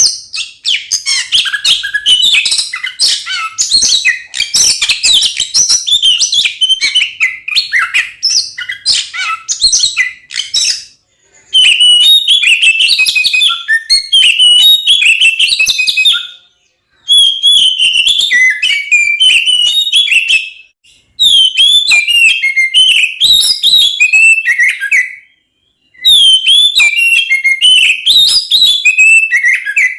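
Oriental magpie-robin (kacer) singing loud, fast, varied song phrases. The song is dense and unbroken for the first third, then comes in bursts of a few seconds with short silent breaks between them.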